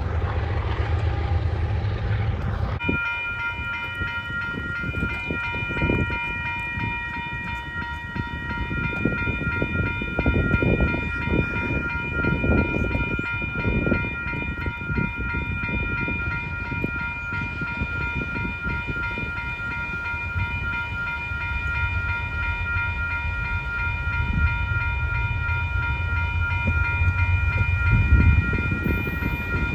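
Freight train rolling past with a varying low rumble. About three seconds in, a steady ringing chord of several high tones joins it and holds unbroken to the end.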